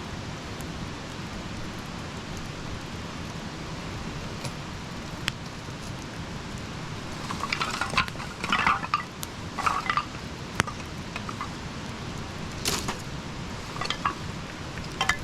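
Campfire burning with a steady hiss and occasional sharp pops. About halfway through, and twice more near the end, come short clusters of clinking and rattling.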